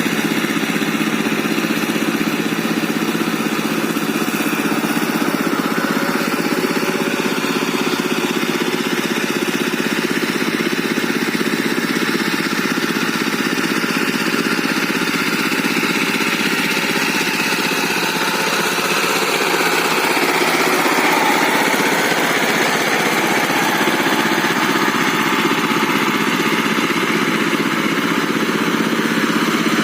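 Diesel engine of a walking-tractor rotary tiller (mini power tiller) running steadily under load, getting a little louder about two-thirds of the way through.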